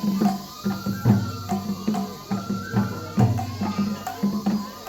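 Japanese festival hayashi music for a lion dance: taiko drums struck in a steady beat, about two to three strokes a second, under a high held melody line.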